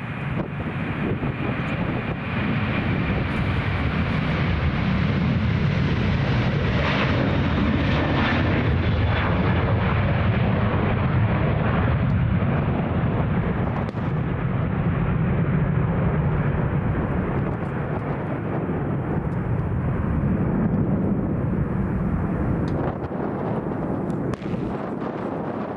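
Airbus A330 twin jet engines at climb power as the airliner climbs out after takeoff: a steady, loud, deep rumble. A thin high whine is heard early on, and the upper part of the sound dulls from about a third of the way in as the aircraft moves away.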